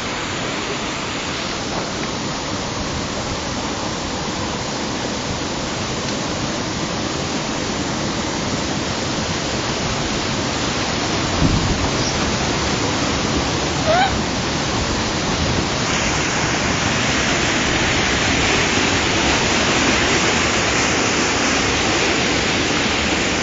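Waterfall water rushing in a steady, dense noise that grows louder about two-thirds of the way through. A brief, high rising yelp cuts through it about halfway.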